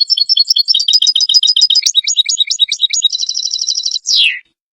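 European goldfinch twittering song: a rapid string of bright chirps that runs into a fast trill about three seconds in. It ends with a short falling note just after four seconds, then cuts off.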